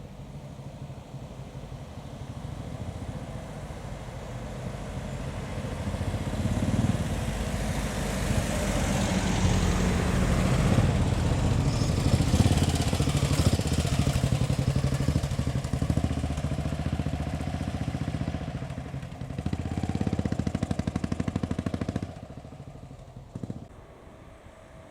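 Classic car engines driving slowly past one after another, growing louder to a peak around the middle as they pass close by. Another engine is loud for a couple of seconds near the end, then the sound drops away suddenly.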